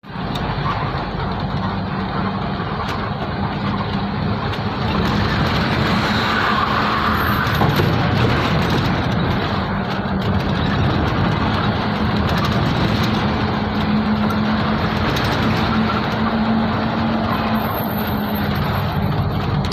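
Truck under way, its engine running steadily with a constant low hum over road noise.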